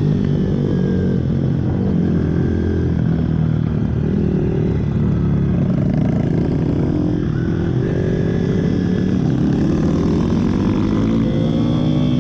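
Pit bike engines running hard, more than one at a time, their notes rising and falling as they rev and ease off, with one climbing steadily near the end.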